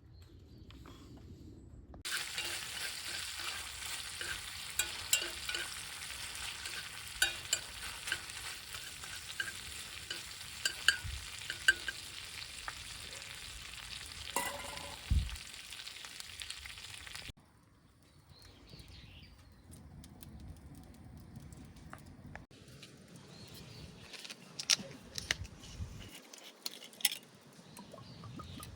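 Food sizzling and spitting as it grills over a wood fire, a dense hiss full of sharp pops, which cuts off abruptly a little past halfway. After that it is quieter, with scattered crackles and clicks.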